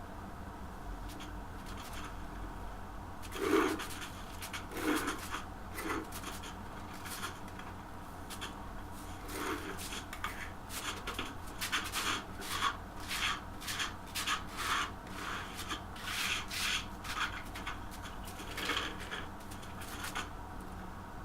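A series of irregular scraping strokes, a few at first and then about one to two a second, over a faint steady hum.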